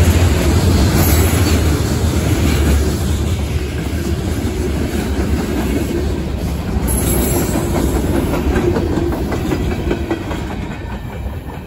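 Freight train cars of a CSX local rolling past at close range, steel wheels running over the rails. The sound fades near the end as the last car goes by.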